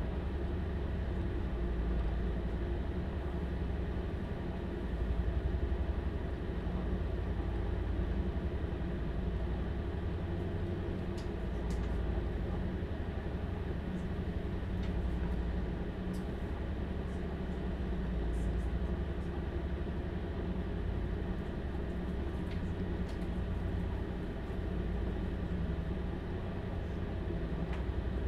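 Cabin sound of a Stadler Class 755 FLIRT bi-mode train running at speed: a steady low rumble and drone of the diesel engines in its central power pack together with running noise, with a few faint light ticks and rattles now and then.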